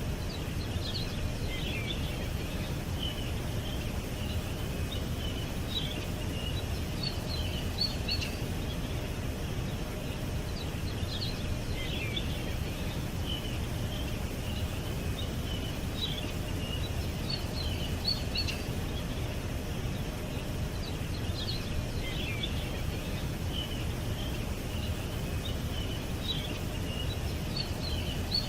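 Small birds chirping in short clusters of quick high calls that recur about every five seconds, over a steady low background rumble.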